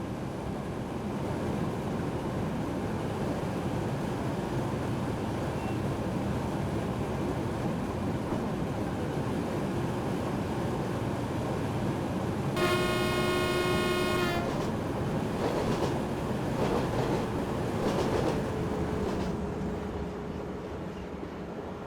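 Train running, heard from inside the driver's cab as a steady rumble; a little over halfway through the train horn sounds once for just under two seconds. Some rail clatter and a faint steady whine follow.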